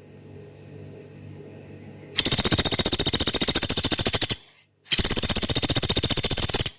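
Pelatuk beras woodpecker giving two long, rapid rattling trills of about two seconds each, the second starting about five seconds in. This is the long, rough 'shooting' call used to train songbirds.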